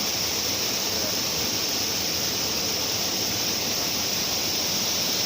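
Steady rush of river water with a small waterfall, an even noise that does not change.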